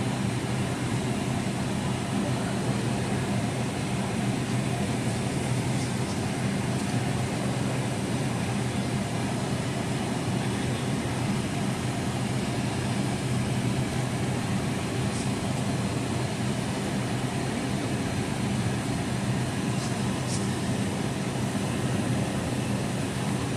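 Steady cabin noise inside a Boeing 757 on the ground: a constant low drone of a few steady tones under rushing air from the ventilation, with a few faint ticks.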